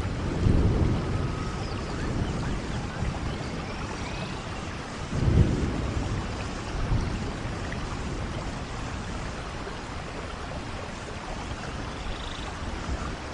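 Steady rain falling, an even hiss. Short low rumbles swell about half a second in, near five seconds in (the loudest) and near seven seconds.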